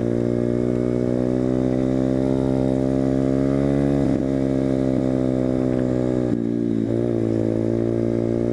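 A pit bike's small single-cylinder four-stroke engine pulls at steady throttle while riding, its pitch creeping slowly up. The note dips and picks up again about four seconds in and again around seven seconds.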